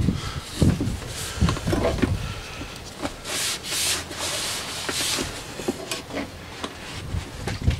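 Rubbing and scraping noises with scattered knocks from a diesel heater being handled and worked on by hand, with a longer rushing noise about three seconds in.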